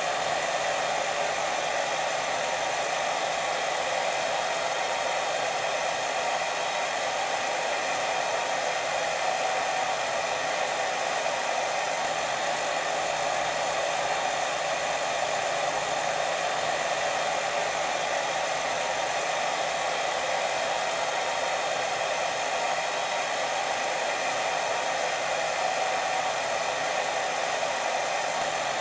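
Steady white noise for sleep: an unbroken hiss, fuller in the middle range, that does not change.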